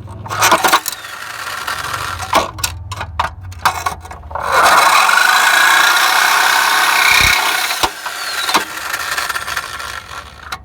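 Corded electric saw cutting through a flap on a car's front end: clicks and knocks as it is set in place, then about three and a half seconds of loud steady cutting starting around four and a half seconds in, easing off after that.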